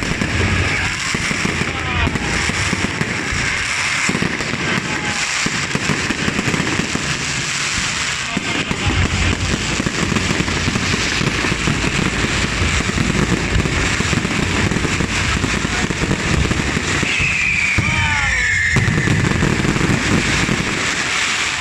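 Fireworks and firecrackers going off without a break: a dense, steady crackle of many overlapping pops and bangs.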